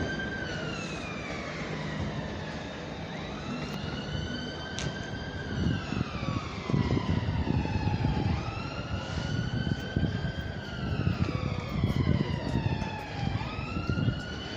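Electric train's traction motors whining in a repeating pattern: the tone rises briefly, then falls slowly, about once every four seconds, over the low rumble of the train moving through the platform.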